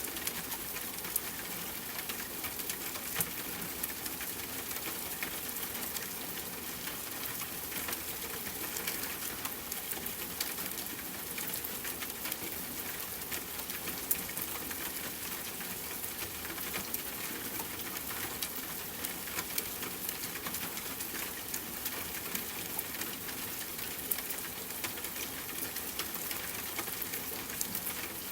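Steady rain falling on a tent, with scattered sharp crackles from a campfire.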